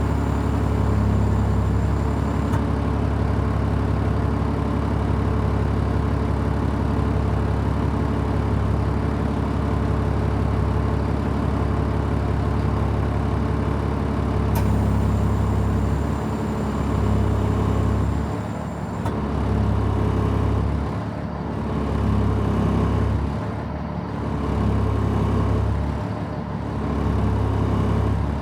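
Diesel engine of a Stewart & Stevenson M1078 military cargo truck idling after a cold start, while the central tire inflation system fills the tires. Steady for the first half; from about halfway the sound swells and dips every two or three seconds.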